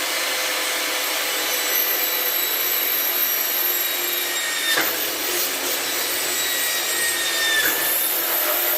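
Electric drill running steadily while boring through a metal bracket, its motor whine dipping in pitch twice as the bit bites under load.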